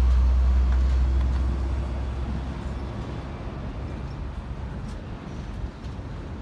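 Double-stack container freight train rolling away on the yard track, a deep rumble that fades over the first few seconds and leaves a quieter rolling noise.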